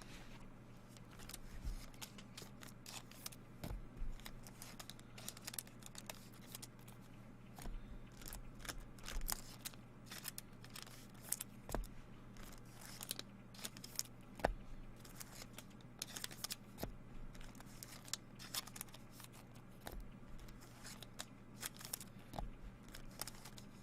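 Trading cards and their pack wrappers being handled at close range: irregular soft clicks, flicks and rustles of cards sliding against one another, over a faint steady hum.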